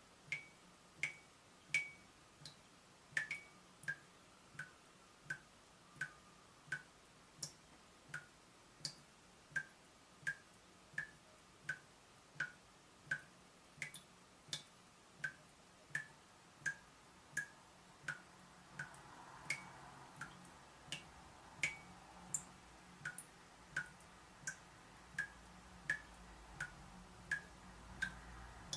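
Water dripping steadily, drop after drop falling about one and a half times a second, each a short, pitched plink. A faint low hum comes in during the second half.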